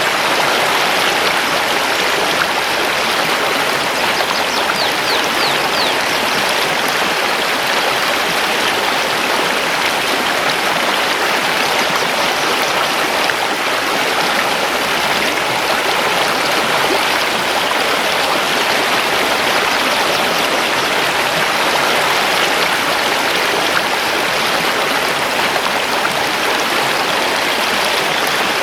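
Mountain river rushing steadily over stones, with a few faint high bird chirps about four to six seconds in.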